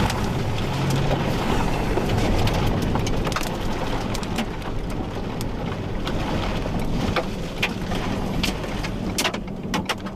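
Inside a car: steady engine hum and rushing vehicle noise, with scattered raindrops tapping on the car, coming more often over the last couple of seconds.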